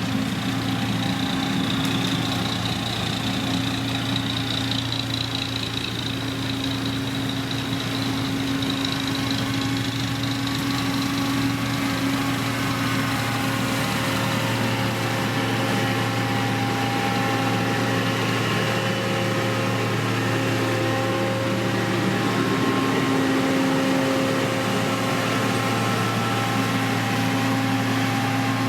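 Heavy construction machine's diesel engine running steadily at a constant speed, with a high whine in the first several seconds.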